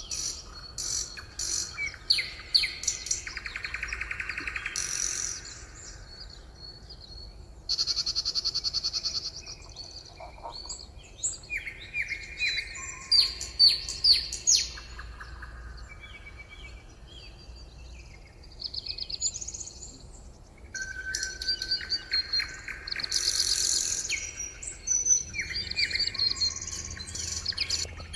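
Several songbirds singing and chirping, with overlapping fast trills and quick runs of repeated notes.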